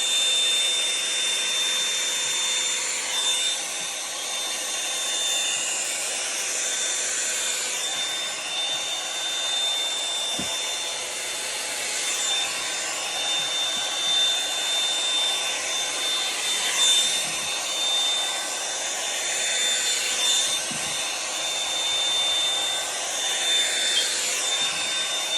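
Revlon One-Step hot-air dryer brush running steadily, its motor giving a constant high whine over the rush of air. About every three to four seconds the sound swishes and shifts as the brush is drawn slowly through a section of curly hair.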